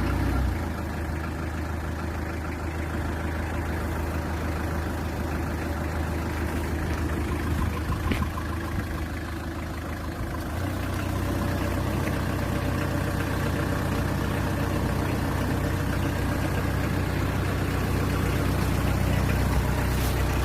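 Diesel engine of a 2001 Hyundai Porter double-cab truck idling steadily, a little louder from about halfway through.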